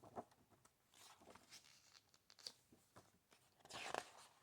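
Paper book pages being handled and turned: faint rustles and soft taps, with one louder page-turn swish near the end.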